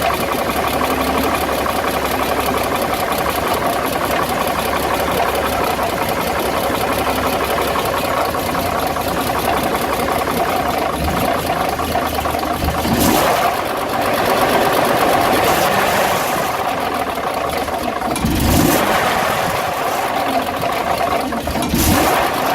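Dodge WC52's flathead straight-six engine running steadily, with the clacking, rubbing noise under it that the owner is investigating. There are a few short louder swells, about halfway through and near the end.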